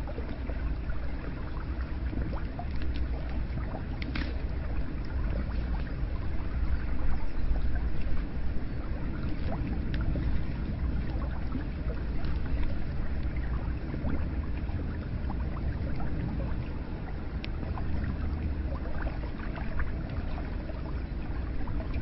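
Hot spring water flowing and splashing steadily into a bath, with scattered small drips.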